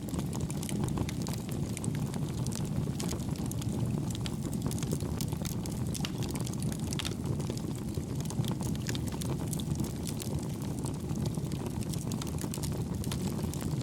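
Wood campfire burning: a steady low rush of flames with frequent light crackles and pops scattered throughout, at an even level.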